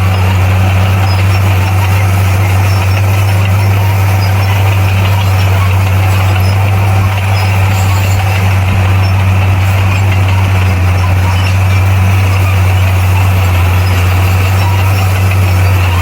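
Bulldozer's heavy diesel engine running steadily with a deep, unchanging hum and a loud mechanical clatter over it.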